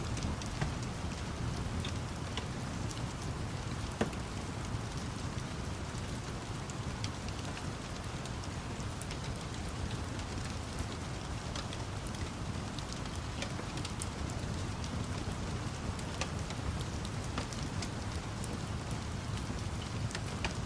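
Steady rain falling, with scattered sharp crackles and pops of a wood fire over it.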